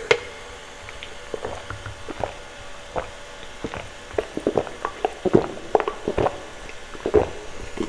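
Close-miked ASMR wet mouth sounds: irregular soft clicks and smacks, a few a second.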